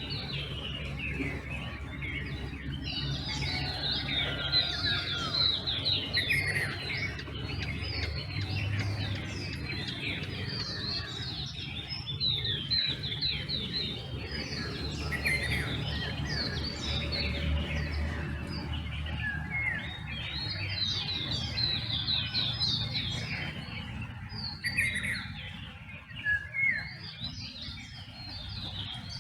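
Dawn chorus of many songbirds calling at once: dense, overlapping chirps and quick trills, with a steady low hum underneath.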